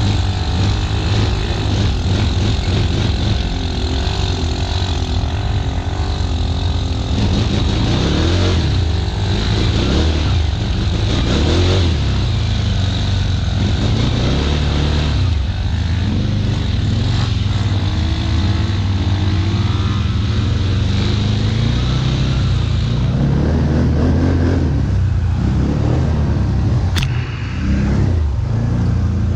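ATV engine running under load, its pitch rising and falling with the throttle. A brief sharp click comes near the end.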